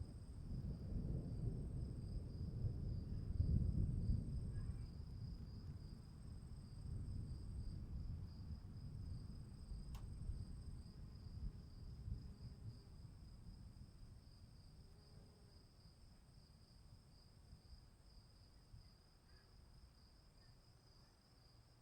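Crickets chirping in a steady high trill, with a fainter higher tone above it. Underneath, a low rumble swells over the first few seconds and then slowly fades. One faint click comes about ten seconds in.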